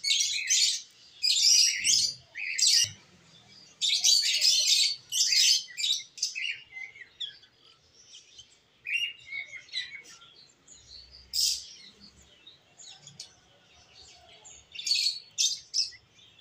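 Small birds chirping in quick, high-pitched bunches, densest in the first six seconds, then thinning to scattered chirps with a short bunch again near the end.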